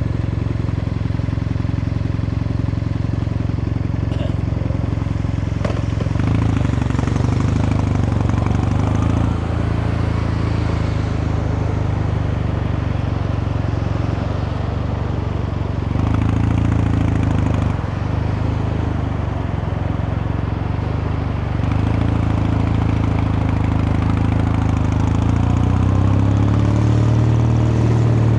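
Kawasaki Meguro K3's vertical-twin engine and exhaust running under way, a steady low beat that gets louder and eases off several times with the throttle, and rises in pitch near the end as it accelerates.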